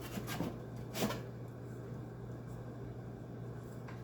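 A few light clicks and a short knock about a second in, from the window air conditioner's metal case and parts being handled during disassembly, over a steady low hum.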